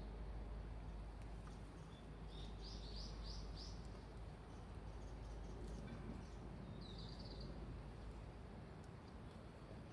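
Small bird calling: a quick run of four or five high chirps about two seconds in, and one short high call near seven seconds, over a steady low outdoor background noise.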